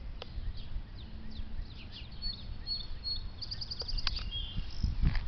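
Small birds chirping, with short high notes and a quick trill in the middle, over a low outdoor rumble.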